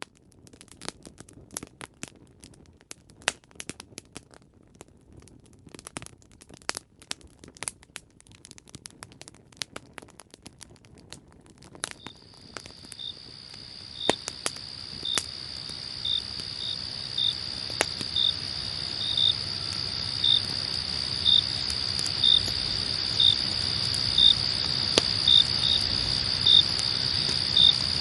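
Campfire crackling in sparse sharp pops. About halfway through, crickets start up: a steady high trill with a louder chirp about once a second, swelling in level.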